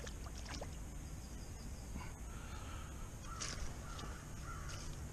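A few short, harsh bird calls in the second half, over a steady low hum, with a few faint clicks in the first second.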